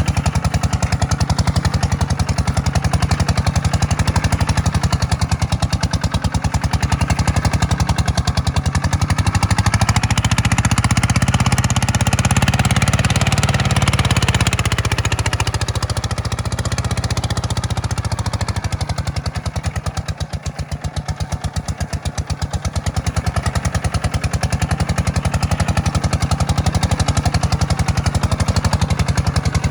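Kubota tractor's diesel engine running steadily while plowing. It works louder and harder for a few seconds in the middle, then eases and dips briefly.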